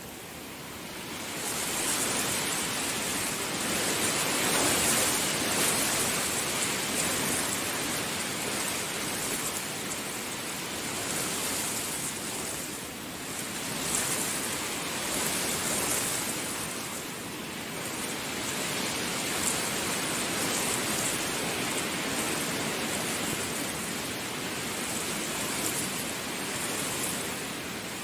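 Heavy rain pouring down in a steady wash that swells up about a second and a half in, then rises and falls gently in intensity.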